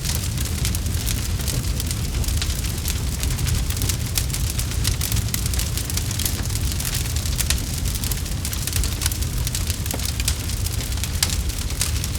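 Campfire burning with dense, irregular crackles and pops over a steady low rumble of flame.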